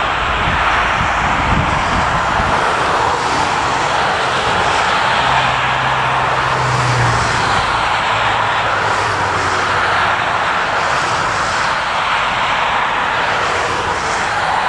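Jet airliner's engines running loud and steady, a continuous rushing noise. A low hum rises out of it about five seconds in and sinks slightly in pitch over the next few seconds.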